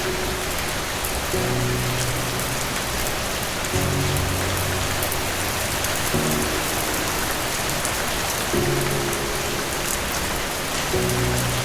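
Steady rain falling, a dense even hiss with small drop ticks. Under it, soft low music notes start anew about every two and a half seconds.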